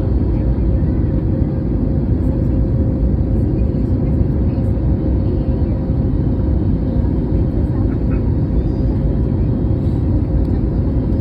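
Airliner cabin noise: a steady, loud drone of jet engines and rushing air, with a constant hum tone running through it.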